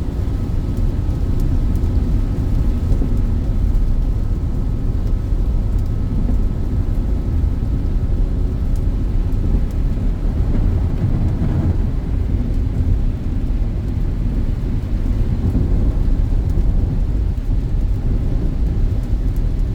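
Steady low rumble of a Peugeot 2008 driving on a wet highway in rain, heard from inside the cabin: tyre and road noise with the engine and rain mixed in.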